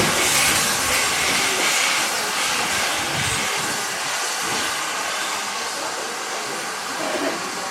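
Steam-hauled train running, heard as a steady hiss over a low, uneven rumble, the train worked by a 2-8-0 tank locomotive.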